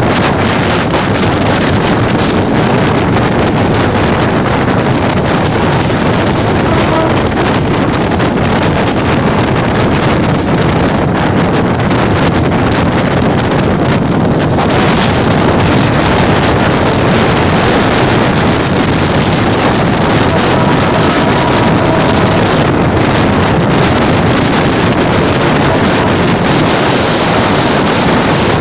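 Wind rushing over the microphone, mixed with the steady running noise of a diesel locomotive hauling a passenger train at speed.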